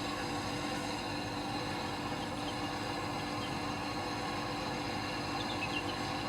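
Compressor running steadily: a constant hum with hiss, holding an even level throughout.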